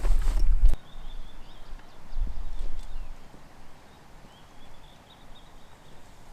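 Wind gusting on the microphone as a heavy low rumble that cuts off suddenly under a second in, then a softer gust about two seconds in, over quiet outdoor air with faint high chirps.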